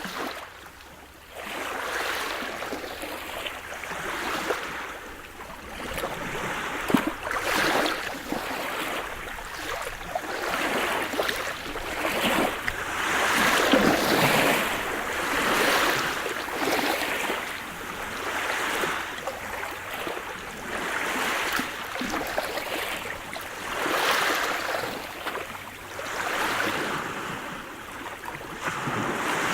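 Sea surf: waves breaking and washing up a shore, the rushing sound swelling and falling back every two to three seconds.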